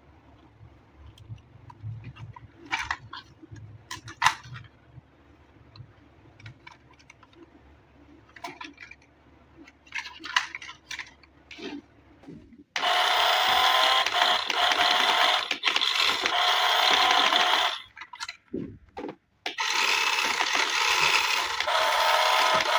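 Scattered light clicks and crinkles from handling a toy and its packaging. About thirteen seconds in, a loud steady sound with several held tones starts suddenly; it breaks off briefly once and then resumes.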